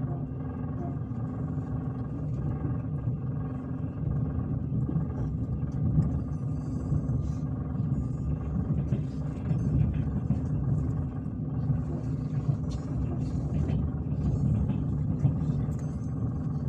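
Passenger train running, heard from inside the carriage: a steady low rumble with a hum, and occasional short knocks from the running gear.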